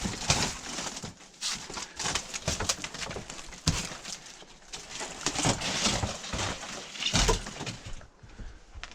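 Debris being shovelled and handled: irregular scraping and clattering with repeated knocks, two of them heavier a little past a third of the way in and near the end.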